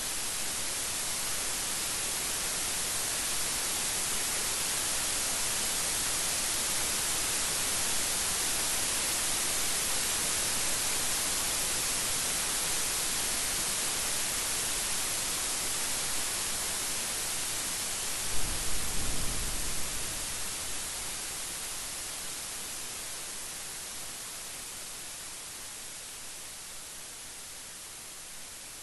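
Steady heavy rain falling, an even hiss. About two-thirds of the way through, a short crack and low rumble of thunder.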